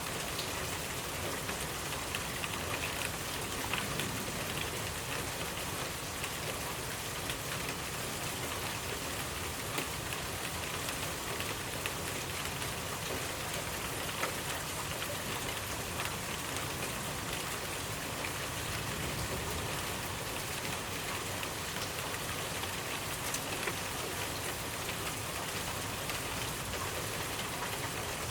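Steady rainfall with individual drops tapping on a surface: a constant even hiss with scattered small ticks.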